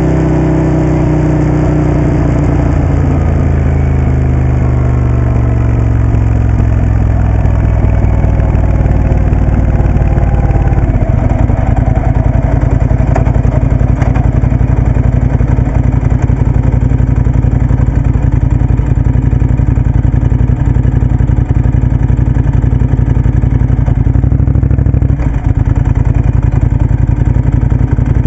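Moto Guzzi Café Sport's transverse V-twin engine running. Its pitch falls over the first several seconds as the engine slows, then it runs steadily at a low pitch for the rest.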